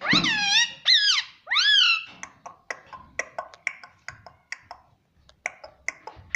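Pet rose-ringed parakeet giving three loud squawks with sweeping pitch in the first two seconds, then a run of soft clicks and chattering chirps.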